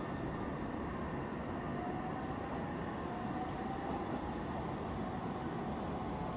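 Steady running noise of a train, with a faint whine slowly rising in pitch from about two seconds in.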